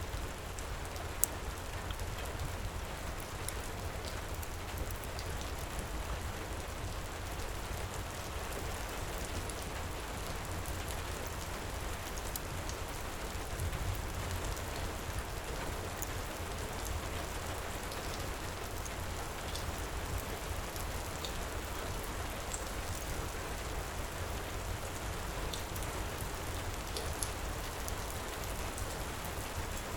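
Steady heavy rain pouring, mixed with the scattered crackles and pops of a wood fire in a fireplace, one sharper pop about a second in.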